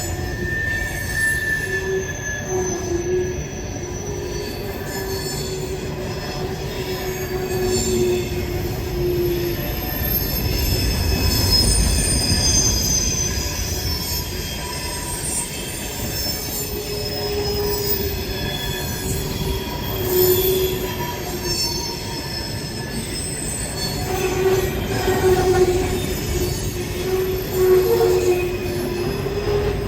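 Freight train cars rolling past with a steady rumble, wheel flanges squealing against the rail in wavering tones that fade and return.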